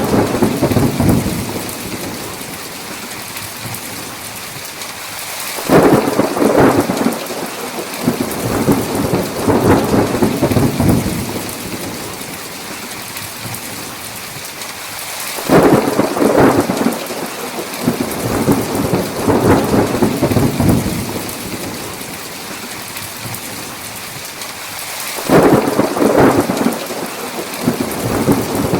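Thunderstorm: steady heavy rain with thunder. Three thunderclaps break in suddenly about ten seconds apart and roll on for several seconds each, over the constant hiss of the rain.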